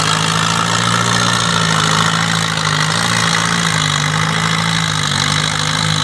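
Case 400 farm tractor's engine running steadily on a tractor pull, its pitch wavering slightly, with a broad hiss of noise over it.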